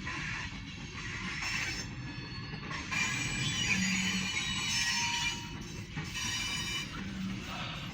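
Freight train of tank cars rolling past: a steady clatter and rumble of wheels on the rails, with thin high-pitched wheel squeal over it, a little louder in the middle.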